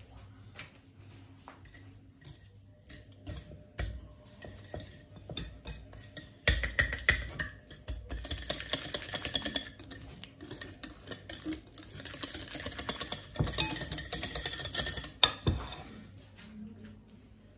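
Kitchen utensil against a bowl: scattered clinks, then, from about six seconds in, several seconds of fast, rhythmic clattering like beating or stirring a mixture, which stops a couple of seconds before the end.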